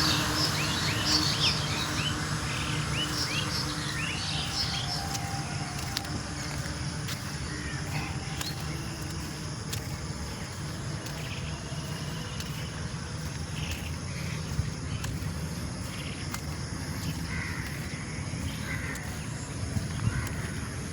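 Small birds chirping in a quick run of short calls for the first few seconds, with a few more calls near the end, over a steady low background rumble with a faint hum.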